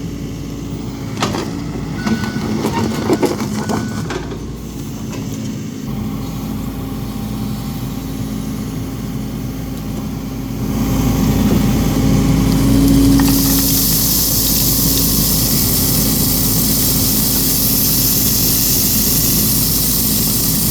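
Small excavator's diesel engine running while it moves rock and dirt, with a few knocks and clanks in the first few seconds. The engine grows louder about halfway through as the machine works harder, and a hiss joins it.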